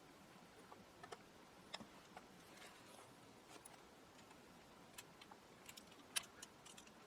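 Faint, irregular clicks and taps of small hard parts being handled, a dozen or so, the loudest about six seconds in.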